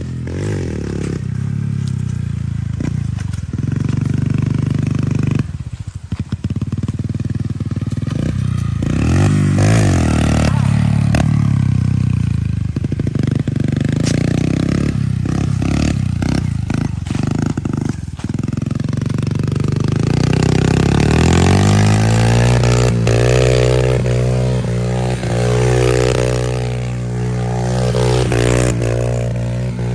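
Pit bike's small single-cylinder engine revving up and down, then rising at about two-thirds of the way through and held steady at high revs.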